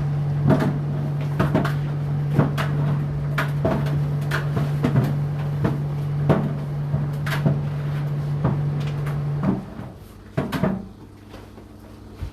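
Indesit IDC8T3 condenser tumble dryer running, its drum motor humming steadily while laundry knocks against the turning drum about once or twice a second. The motor stops about nine and a half seconds in, followed by a knock or two and then a quieter pause.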